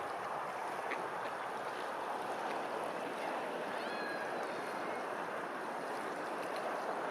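Steady rushing of running water, with a few faint bird chirps about four seconds in.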